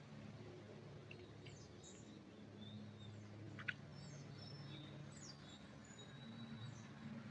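Faint forest birdsong: scattered short chirps and quick falling notes from small birds, with one sharper single note a little over halfway, over a low steady hum.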